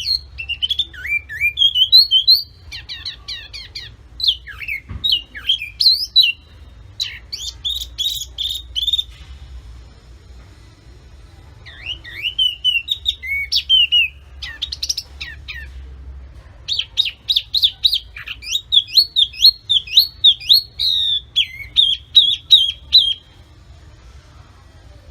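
A songbird singing in long runs of fast, varied whistled phrases, with a couple of short breaks between them; a faint steady low hum lies underneath.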